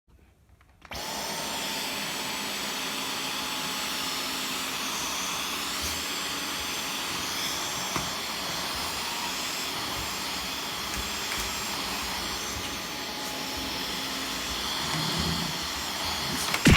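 A vacuum cleaner switches on about a second in and runs steadily, a broad motor-and-airflow noise with a faint high whine. At the very end there is a short, loud knock.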